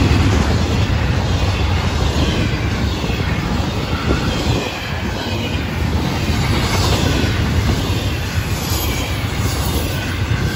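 Intermodal freight cars loaded with double-stacked containers and trailers rolling past: a steady, loud rumble of steel wheels on the rails.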